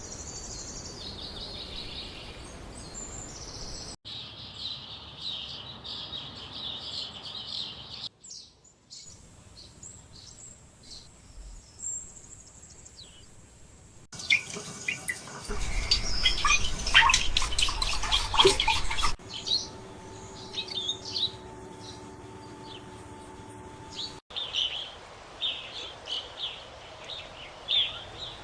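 Songbirds chirping and singing, heard across several short outdoor ambience clips that change abruptly every few seconds. About halfway through, a louder stretch of noise with a low rumble sits under the birds for a few seconds.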